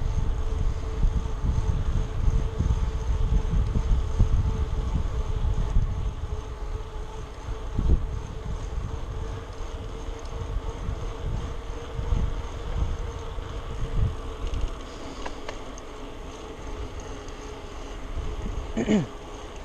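Wind buffeting the microphone of a moving bicycle, with a steady hum underneath. The gusts ease after about six seconds, and there is a brief falling squeak near the end.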